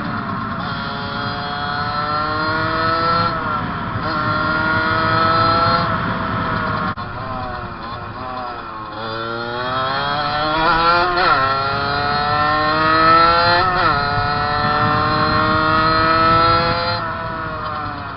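Fantic 50 motorcycle's small engine pulled hard at full throttle. Its pitch climbs and drops sharply at each gear change, four times over, with a steadier stretch in between.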